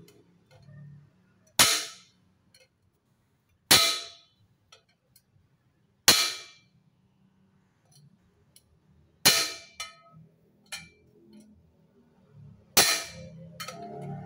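Hammer blows on a dented motorcycle exhaust muffler to knock the dent out: five sharp metallic strikes a couple of seconds apart, each ringing briefly.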